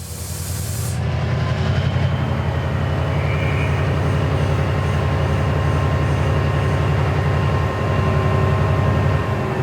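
Diesel locomotive engine running loud and steady with a fast, even low throb, building up over the first second or so. A high hiss stops about a second in.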